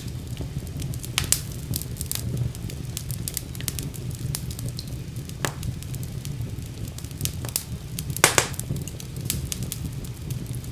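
Wood fire burning in a fireplace: a steady low rumble of flames with irregular sharp crackles and pops, the loudest pops about a second in and near the end.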